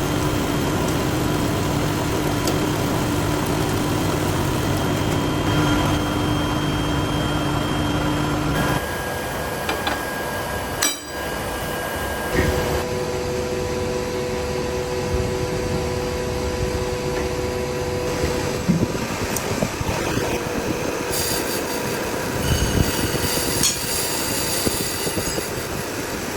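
Metalworking machinery in a workshop running steadily: a continuous mechanical noise with humming tones. The sound changes abruptly a few times, about a third of the way in, near the middle, and again about four-fifths through.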